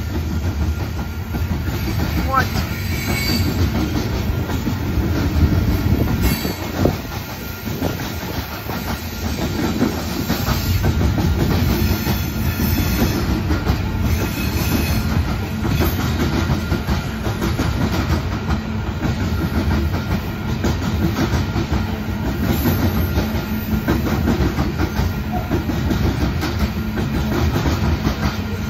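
Coal train's hopper cars rolling past: a steady, unbroken rumble with the clatter of wheels over the rail joints.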